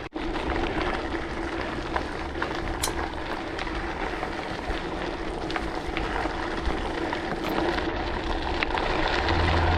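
Mountain bike being ridden along a trail: a steady rush of wind and tyre noise with a faint steady hum and scattered small clicks. A lower hum comes in near the end.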